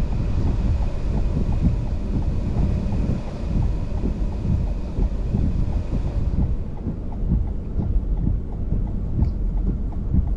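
Strong wind buffeting the microphone: a heavy low rumble that swells in gusts. A faint, regular ticking runs underneath, and the higher hiss drops away about six seconds in.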